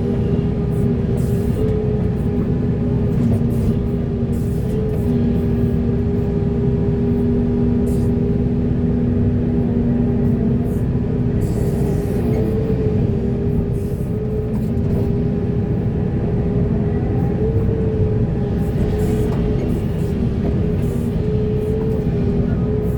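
Large hydraulic excavator's diesel engine running steadily under load, with a steady hydraulic whine over the low rumble and occasional faint clicks.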